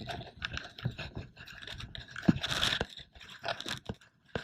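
Wet beach sand crunching and scraping in irregular clicks and grinding noises, with a louder, longer scrape about two and a half seconds in.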